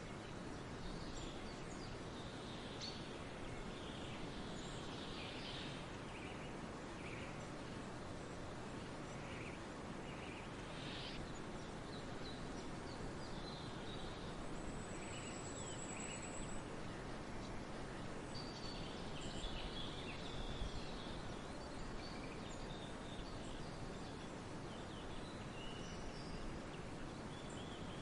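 Forest ambience: several songbirds chirping and calling here and there over a steady background hiss, with one high, even trill lasting about two seconds around the middle.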